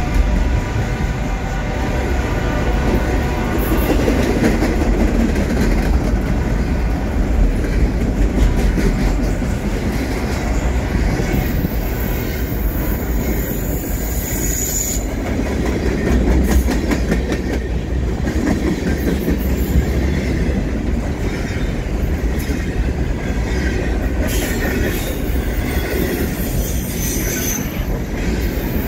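Double-stack intermodal freight train passing close by: a steady rumble of wheels on rail with clickety-clack over the rail joints. Brief high-pitched wheel squeals come about twelve seconds in and again near the end.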